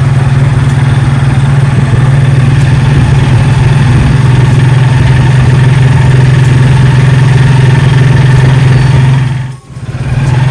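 A motor vehicle's engine running with a steady low hum. The sound drops out sharply for a moment near the end, then comes back.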